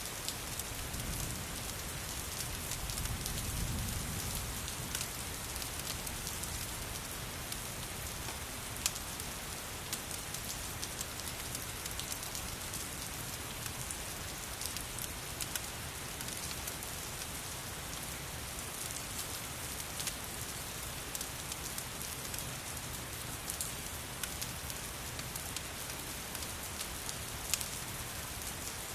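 Steady rain hiss mixed with scattered sharp crackles and pops from a wood fire. A low rumble swells briefly a couple of seconds in.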